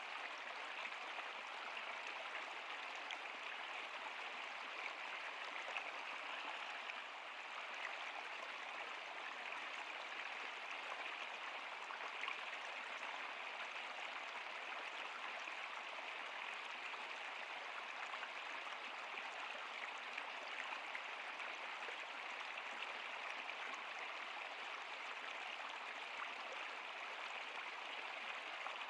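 Water of a stream flowing steadily over rocks, a constant rushing hiss with small splashes throughout.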